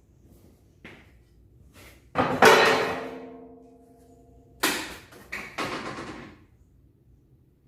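Metal clanking: a hard metallic strike about two seconds in that rings with several tones as it fades, then a second rattling clatter of knocks.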